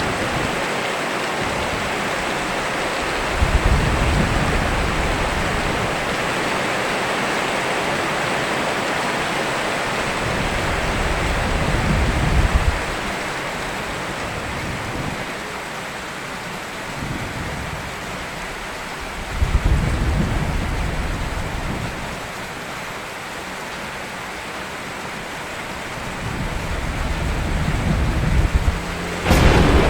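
Steady heavy rain with deep rolling thunder swelling up four times, each rumble lasting a few seconds, and a sharp, loud thunderclap breaking right at the end.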